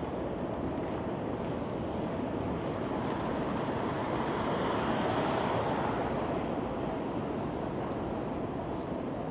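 City street traffic noise, a steady rushing hiss of tyres and engines, with one vehicle passing that swells to a peak about five seconds in and fades away.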